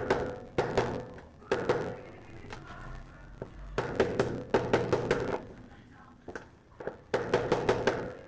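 A new ball bearing being tapped down into its seat in a washing machine's drum housing, struck through the old bearing used as a driver. The taps come in quick bursts of several, each ringing briefly, worked gently in a cross pattern to seat the bearing straight.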